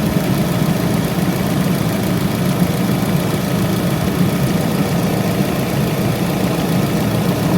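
2015 Fiat 500 Sport engine idling steadily with the air-conditioning compressor clutch engaged, the system being recharged with refrigerant gas.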